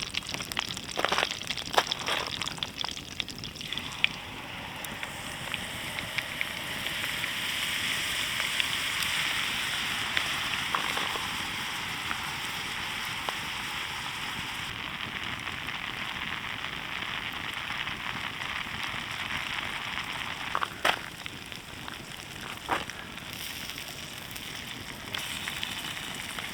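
Melted butter sizzling in a cast iron cooker over a campfire, with crackling and a few sharp pops from the fire.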